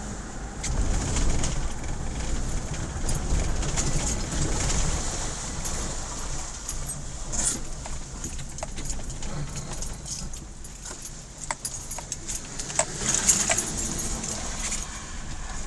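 Car driving on a snow-covered road, heard from inside the cabin: a steady low road rumble with frequent light clinks and rattles, busiest near the end.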